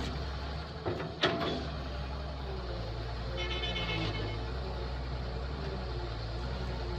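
Kobelco excavator's diesel engine running steadily under a low hum, with two sharp knocks about a second in and a brief high-pitched tone near the middle.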